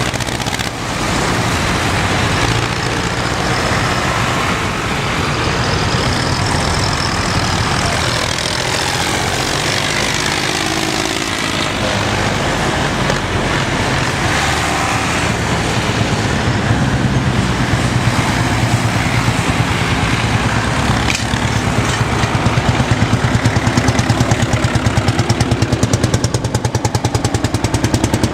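Tractor engines running steadily. From about two-thirds of the way in, a close engine's even, rapid firing beat grows louder.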